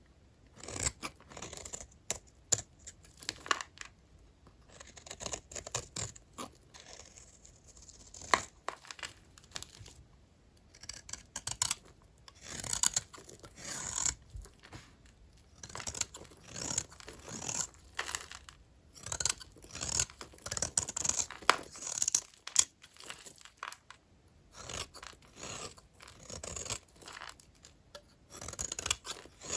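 Knife cutting through dry bars of vintage hotel soap: repeated short, crisp scraping strokes that come in quick clusters with brief pauses between them.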